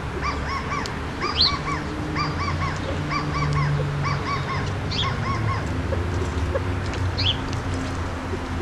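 Birds calling: quick groups of three or four short, nasal, arched notes, repeated over the first five seconds or so, with a few thin, high, falling whistles. A steady low rumble runs underneath.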